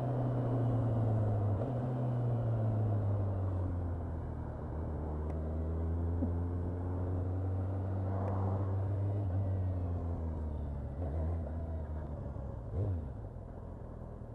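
Motorcycle engine heard from the bike, its note dropping as it slows over the first few seconds, then running steadily at low revs. There is a short thump near the end.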